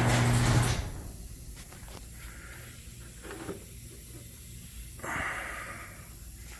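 An electric garage door opener motor hums steadily and stops less than a second in. After that the room is quiet apart from a few short, soft breathy exhalations.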